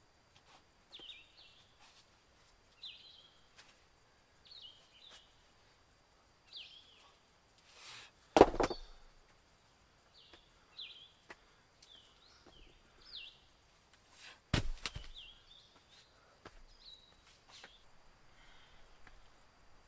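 A bird repeating a short, high call roughly every second, with two loud knocks about eight and fourteen and a half seconds in and a few lighter clicks.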